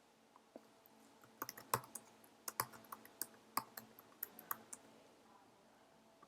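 Typing on a computer keyboard: a short, irregular run of faint keystrokes starting about a second and a half in and stopping about three seconds later.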